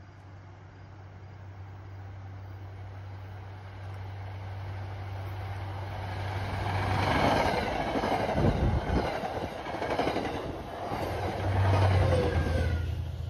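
MBTA commuter train approaching and passing close by, cab car first, with wheels clattering over the rails. It grows louder as it nears. Near the end the diesel locomotive pushing at the rear goes by with its engine loud, dropping in pitch as it passes.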